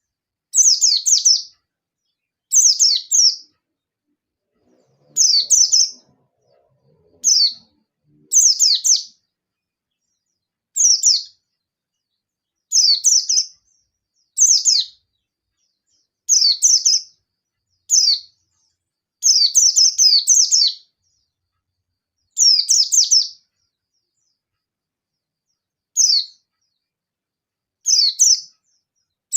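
Yellow-breasted white-eye (pleci dada kuning) singing its rapid 'nembak' challenge song, the kind that calls out a rival. It comes in short bursts of fast, high, falling chirps, about one burst every second or two, with a longer pause a few seconds before the end.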